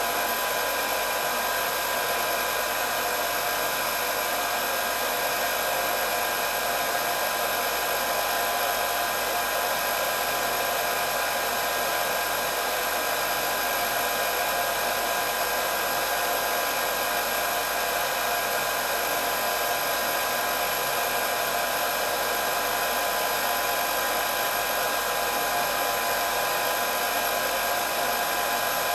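Electric hair dryer running steadily: an even rush of air with a constant high motor whine.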